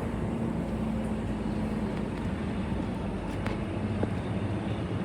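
Queensland Rail electric suburban train running, a steady rumble with a low hum that fades about halfway through and a single click about three and a half seconds in.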